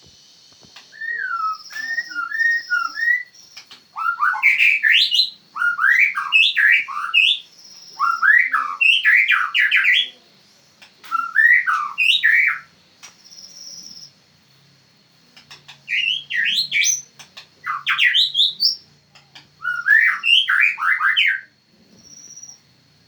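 White-rumped shama (murai batu, Medan strain) singing: about seven phrases of rapid whistled notes sweeping up and down, separated by short pauses.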